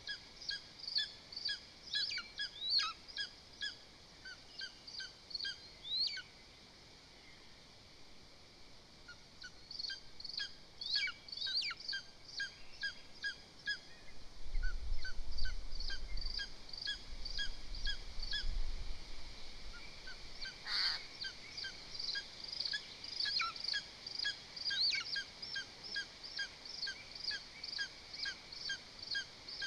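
Lesser spotted eagle calling a long series of short, evenly repeated yelps at about two a second, pausing for a few seconds after about six seconds, then resuming. A low rumble runs under the calls for a few seconds near the middle.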